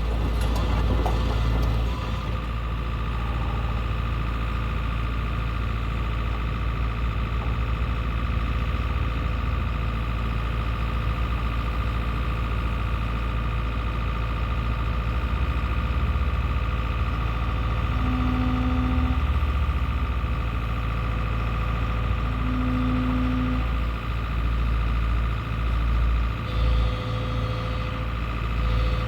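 Excavator's diesel engine running steadily, with scraping and clatter in the first couple of seconds and uneven low surges near the end.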